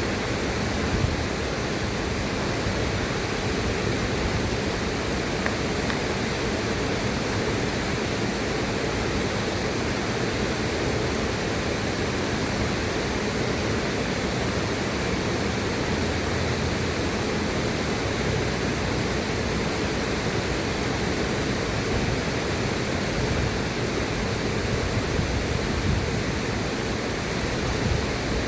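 River water rushing steadily, an even wash of noise with no change.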